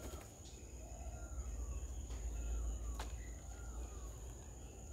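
Garden ambience: short falling bird chirps repeat about once a second over a steady high insect-like drone and a low rumble, with one sharp click about three seconds in.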